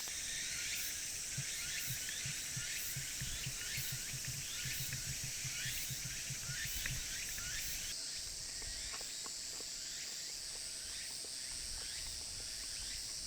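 A steady high-pitched insect chorus from the forest, with short faint chirps over it. Soft low taps repeat a few times a second through the first half.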